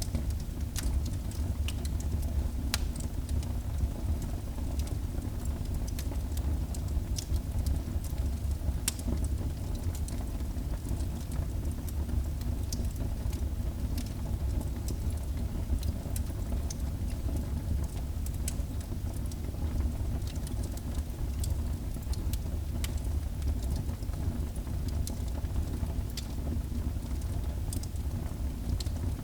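Wood fire burning in a fireplace: a steady low rumble of the flames with scattered sharp crackles and pops of burning wood.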